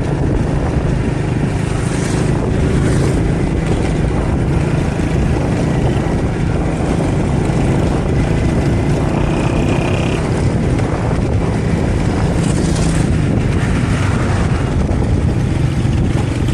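70cc single-cylinder motorcycle engine running steadily while riding, with road and wind noise on the microphone and a few brief gusts.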